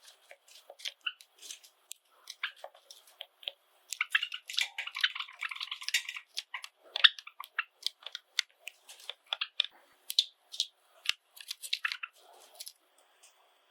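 Java sparrows making short, sharp chips and clicks, with a denser run of chirping about four seconds in that lasts some two seconds.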